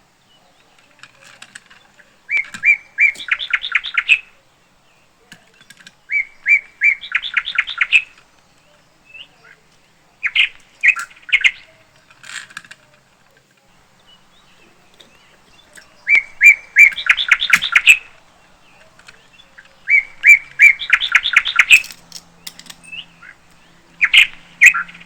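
Bird chirping in repeated phrases, each a few clear notes running into a fast trill, coming back about every four seconds.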